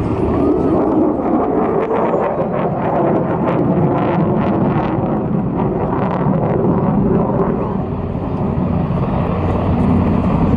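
HH-60G Pave Hawk helicopter running loud and steady nearby, its twin turboshaft engines and main rotor making a dense roar, with a run of short rhythmic rotor-blade beats in the middle.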